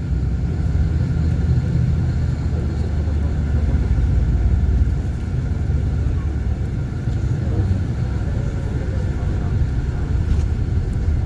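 Steady low rumble of a car driving: engine and road noise running on without change.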